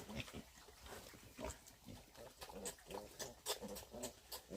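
Domestic pigs grunting: a string of short grunts, one every half second or so, with a few sharp clicks among them.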